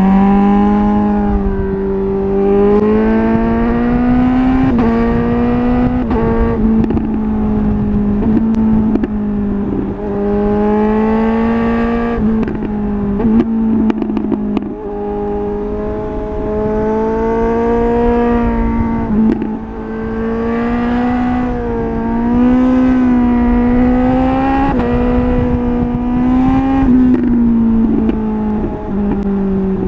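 Suzuki GSR 750's inline-four engine through a MIVV Double Gun exhaust, pulling up through the gears: the note climbs, then drops sharply at each quickshifted upshift, over and over. Between pulls the engine runs down off the throttle with a spattering crackle from the exhaust.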